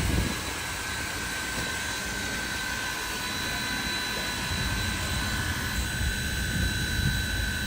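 Steam locomotives of the Durango & Silverton double-header making a steady, jet-like roar and hiss with an uneven low rumble, over a steady high whine.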